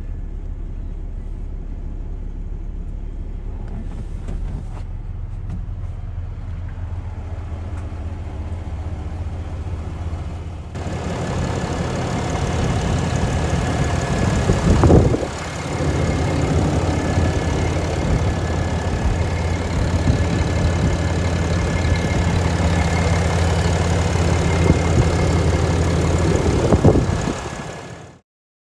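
Cummins B6.7 turbo-diesel engine of a Ram 5500 truck running steadily, then louder from about eleven seconds in with a steady high whine over it. The sound drops briefly around the middle and cuts off just before the end.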